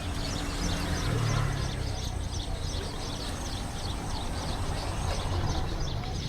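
A flock of birds chirping rapidly and continuously over a steady low rumble, with a brief low hum about a second in.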